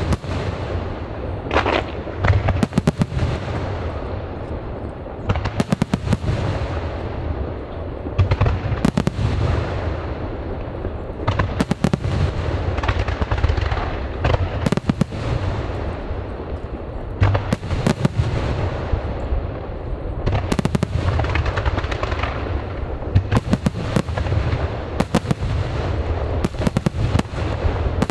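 Aerial fireworks display: shells bursting in quick volleys of sharp bangs, each trailing off in echo, over a continuous low rumble and crackle.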